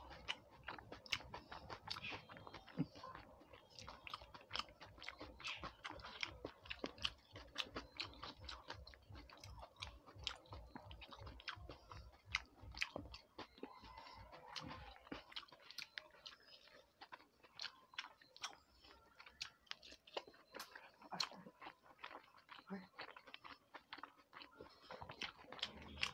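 A person chewing and biting food close to a clip-on lapel microphone, with a steady stream of small, sharp mouth clicks.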